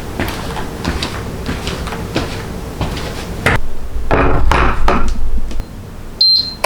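Kitchen handling: a string of light knocks and clatter, then louder rustling and scraping bursts from about three and a half seconds in, and a short high beep near the end.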